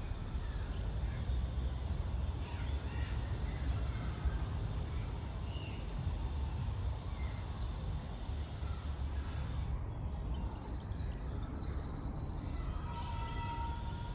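Suburban woodland ambience: a steady low rumble of distant road traffic under birds calling, with quick high chirps and trills growing busier in the second half.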